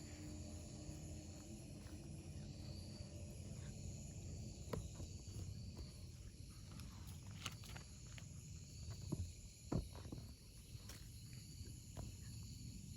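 Insects chirping in an even, pulsing rhythm over a low outdoor rumble, with a few scattered light clicks.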